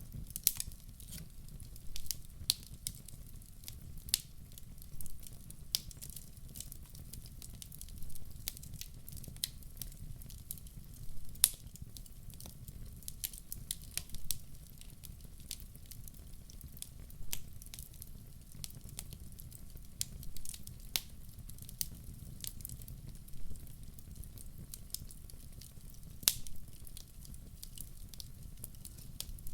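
Wood logs burning in a fireplace: a steady low rumble of the fire with irregular sharp crackles and pops, several a second at times.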